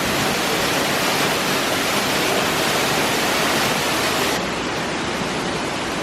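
Steady, loud rush of falling water, an even hiss with no distinct drops or splashes, dropping slightly and losing some of its highest hiss about four seconds in.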